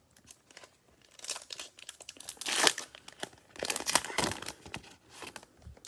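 Cellophane wrapper of a trading-card cello pack crinkling and tearing as it is opened, in several irregular crackling bursts, loudest about two and a half and four seconds in.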